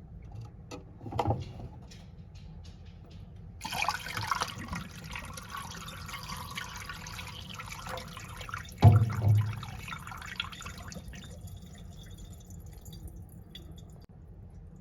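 Miniature toilet flushing: a few small clicks, then a rush of water starting about four seconds in, with a single low thump partway through, fading to a faint trickle and drips.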